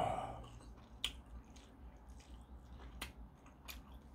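A man chewing a soft mouthful of ramen noodles and dumplings, with a louder mouth noise right at the start and then a few wet mouth clicks about a second apart.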